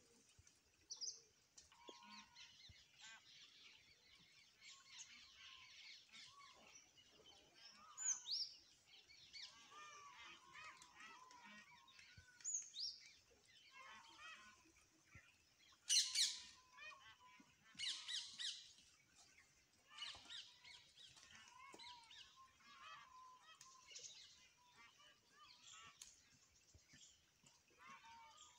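Wild birds chirping and calling, with short whistled notes throughout and a few sharper, louder calls in the second half.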